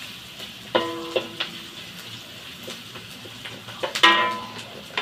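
Onion and garlic frying in butter in an aluminium wok, a steady sizzle, with a wooden spatula stirring and knocking against the pan. About four seconds in the spatula is set down in the wok with a louder clack and a short ring.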